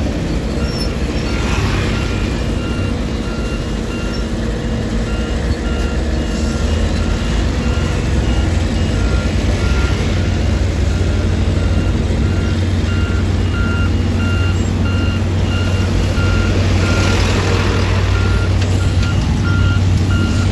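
Diesel engine of a heavy road-construction machine running steadily, with its reversing alarm beeping at an even pace as it backs up.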